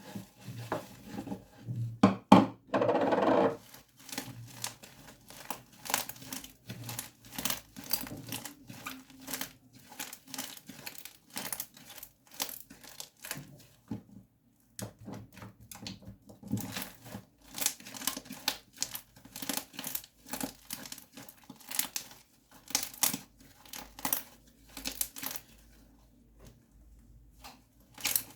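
Slime being squeezed and worked by hand, giving a run of irregular crackling clicks and pops. About two seconds in, a louder, longer squelch lasts roughly a second and a half.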